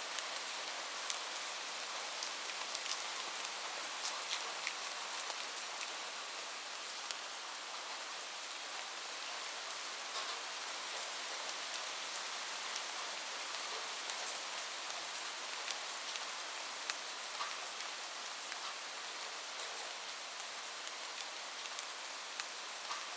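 Steady rain falling on a roof: an even hiss with scattered sharper ticks of single drops.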